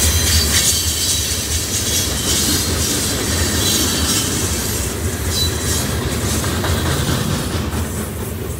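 Florida East Coast freight train's boxcars rolling past on the rails, a steady low rumble of wheels on track with high wheel noise above it, the sound fading as the last cars go by near the end.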